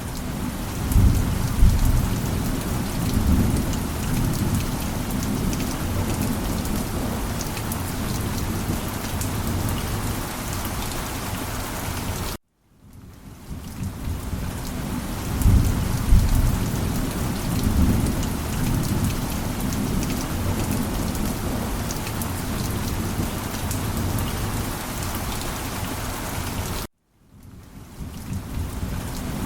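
Heavy rain falling steadily with low rolls of thunder, loudest about a second in and again about fifteen seconds in. The recording is a loop: it cuts out suddenly twice, about twelve and twenty-seven seconds in, and fades back in each time.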